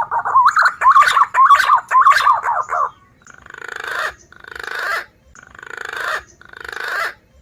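Green pigeon (punai) call played as a lure: about three seconds of quick warbling whistled notes, then four rasping phrases that each swell in loudness. It cuts off suddenly near the end.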